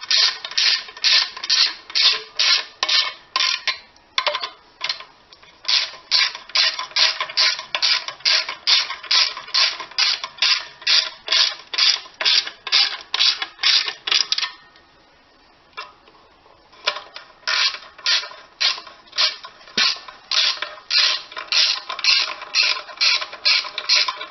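Hand ratchet wrench being worked back and forth to run in bolts, a fast even clicking rhythm of about three strokes a second, with two brief pauses.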